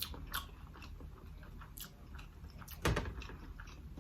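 Close-up eating sounds: a person chewing and biting food, with scattered wet mouth clicks and one louder click about three seconds in.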